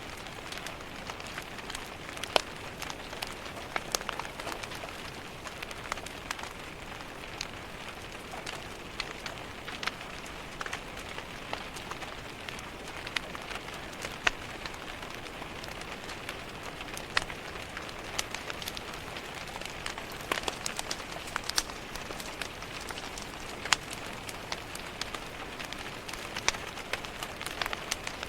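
Steady rain falling against a window, mixed with a wood fire crackling in a fireplace, its sharp pops and snaps coming at irregular moments throughout.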